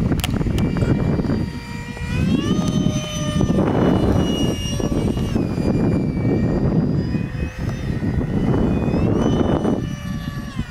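Electric ducted fan of an RC foam jet whining in flight, its pitch stepping up about two and a half seconds in as the throttle rises, then easing and shifting later. Gusty wind rumbles over the microphone.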